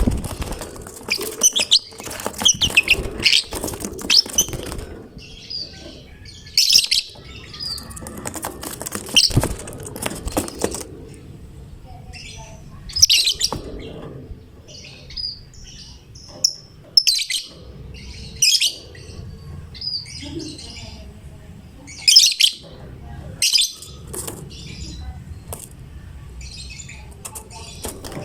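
Lovebird in full song, giving rapid shrill chirps and chattering, dense and scratchy in the first few seconds and again about ten seconds in, then separate sharp calls every second or two.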